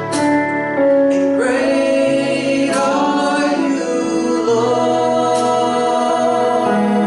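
Gospel worship song: singers holding long notes over sustained instrumental chords.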